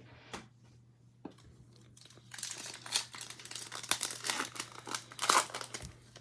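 Plastic wrapper of a pack of trading cards being torn open and crinkled, a dense crackling with sharp clicks starting about two seconds in and stopping just before the end.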